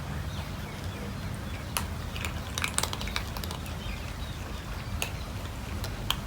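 Cats eating, with scattered sharp clicks and crunches of chewing and food against dishes, a cluster of them about halfway through, over a steady low hum.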